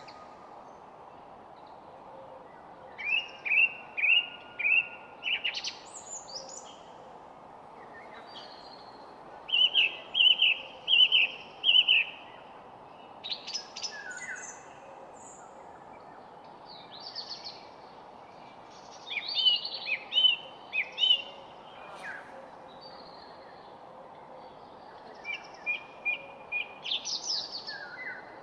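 Songbirds singing in short phrases of several quick, repeated chirping notes, a phrase every few seconds, over a steady background hiss.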